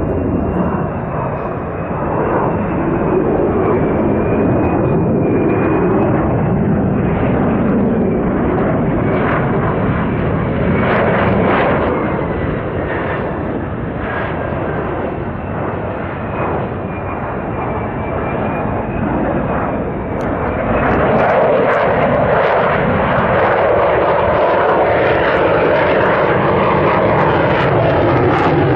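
F-35 Lightning II's F135 turbofan jet engine: a steady loud rush with a high, wavering whine. About two-thirds of the way through the sound changes and a lower tone slowly falls in pitch as the jet moves relative to the listener.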